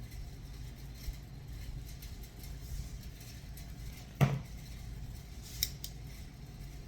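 Kitchenware handled over a low steady hum: one sharp knock about four seconds in and a lighter clink about a second and a half later.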